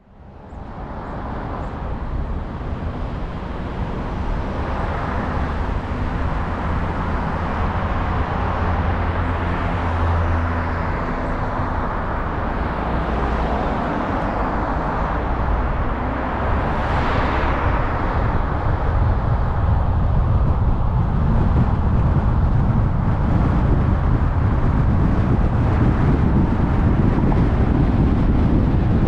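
A car driving: steady road and tyre noise with engine rumble, growing louder as it picks up speed. A brief passing whoosh rises and falls a little past the middle.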